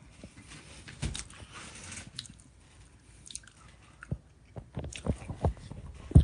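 A person chewing a mouthful of baked fish close to the microphone, with irregular wet smacks and soft clicks of the mouth. One louder click comes near the end.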